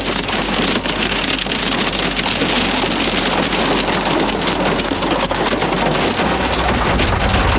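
Heavy rain pelting a storm-chase vehicle: a dense, steady hiss full of sharp drop strikes. A low rumble joins about six seconds in.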